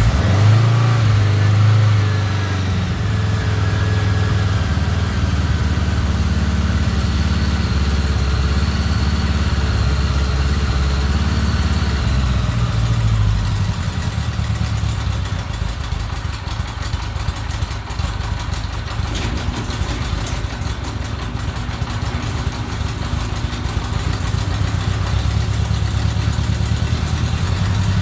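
1975 Honda GL1000 Gold Wing's liquid-cooled flat-four engine idling through its newly installed exhaust just after a cold start. It runs at a fast idle at first, drops to a lower, steadier idle about 13 seconds in, and picks up slightly near the end.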